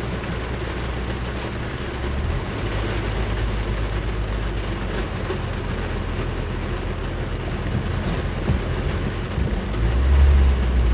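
Steady low road and engine rumble of a car driving through heavy rain, with a haze of rain and tyre noise. A deep low rumble swells much louder near the end.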